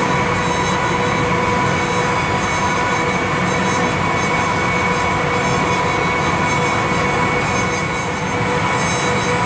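Amtrak passenger train rolling slowly along the rails, heard from inside the car: a steady rumble of wheels and track with a constant high whine over it.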